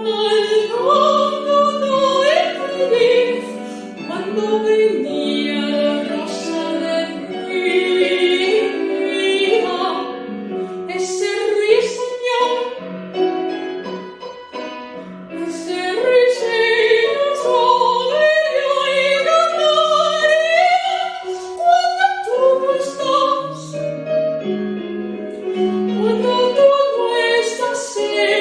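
Female soprano voice singing a zarzuela aria in operatic style, with wavering vibrato, over instrumental accompaniment; the music goes briefly softer about halfway through.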